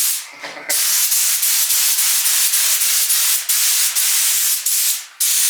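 Compressed-air paint spray gun with a 2.5 mm nozzle spraying thick primer: a steady hiss, cut off briefly near the start and again near the end as the trigger is let go.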